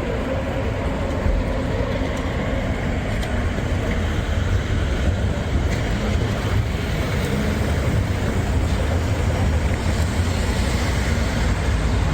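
Steady city street ambience dominated by the low rumble of passing road traffic.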